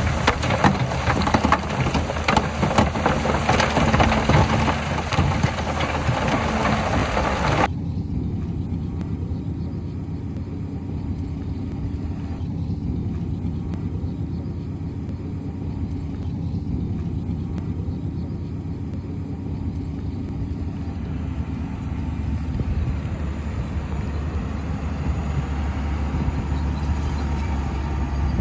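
Heavy diesel construction machinery running. For the first several seconds a dense rattling clatter sits over the engine, then it cuts off abruptly, leaving a steady low engine drone.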